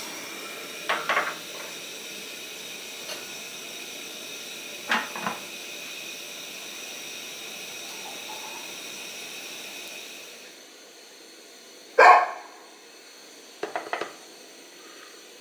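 Steady hiss of a gas burner heating a pot of fish in water. Over it come a few short, sharp bark-like yelps in twos and threes, about a second in, about five seconds in, and loudest about twelve seconds in.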